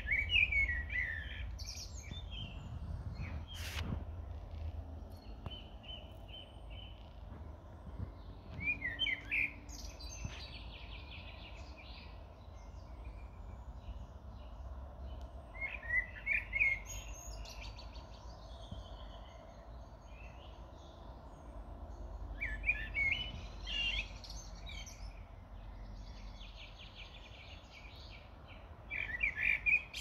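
Songbird singing a short, loud phrase of quick notes about every seven seconds, with fainter chirps and trills between the phrases.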